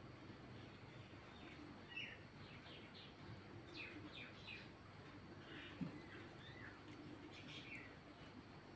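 Near silence with faint, scattered bird chirps in the background over a low steady room hum, and one soft tap about six seconds in.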